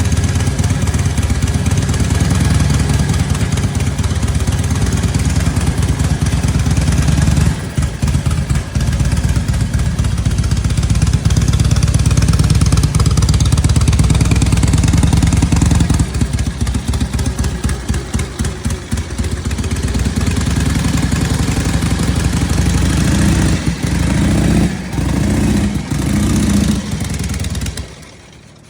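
1943 Indian Scout's flathead V-twin engine running, revved up and down with a run of quick throttle blips in the middle, then cutting off shortly before the end.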